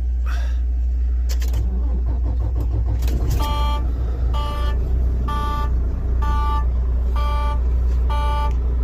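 Steady low drone of a semi-truck cab while driving. About three and a half seconds in, an electronic warning beep starts, repeating about once a second, six times.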